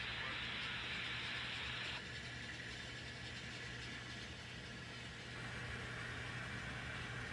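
N scale model train locomotive running: a steady low hum with a hiss over it, which drops away about two seconds in and comes back near the end.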